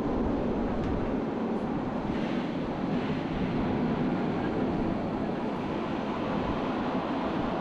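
Steady running noise of a Rhaetian Railway train on the Bernina line, heard from an open observation carriage with wind buffeting the microphone.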